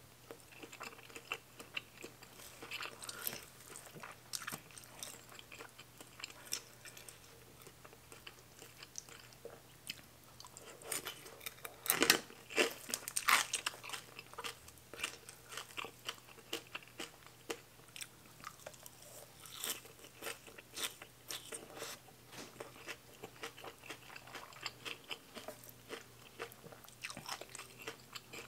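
Close-up eating sounds: a person chewing with many short wet clicks, and a run of loud crunchy bites about twelve seconds in, from raw vegetable slices eaten with spicy rice noodles. A faint steady hum runs underneath.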